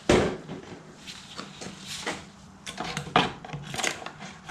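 Handling sounds of a new engine air filter element being fitted into its air cleaner housing: plastic and rubber rubbing with a sharp knock at the start and several lighter knocks, the loudest about three seconds in.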